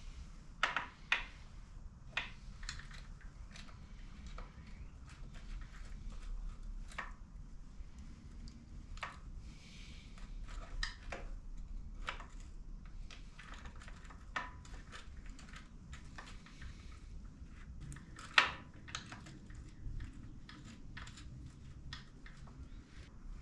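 Irregular clicks and clinks of tools and small metal parts being handled during motorcycle rear suspension work, one sharper knock about eighteen seconds in, over a low steady hum.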